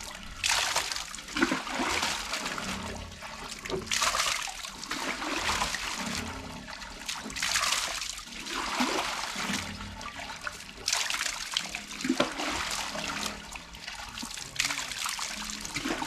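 Water gushing and splashing, swelling in surges about every three and a half seconds.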